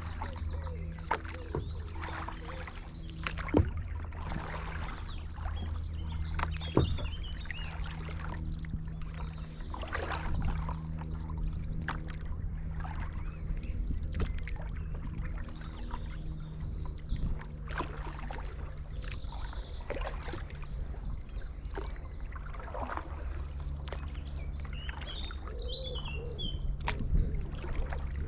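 Stand-up paddleboard paddle dipping and pulling through canal water every second or two, over a steady low hum, with birds chirping at times, most around the middle and near the end.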